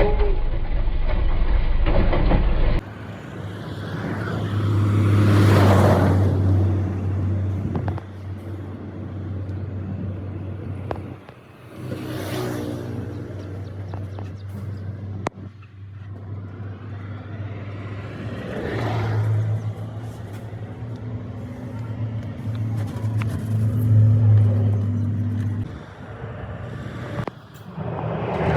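Road traffic going by: vehicles pass one after another, each swelling and fading over a couple of seconds, over a steady low engine hum.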